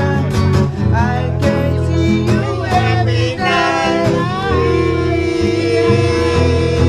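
A live blues song on acoustic guitar, strummed and picked, with a singer's voice gliding over it.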